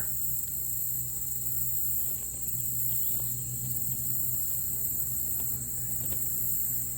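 Steady chirring of crickets or similar insects, high-pitched and continuous, with a few faint ticks here and there.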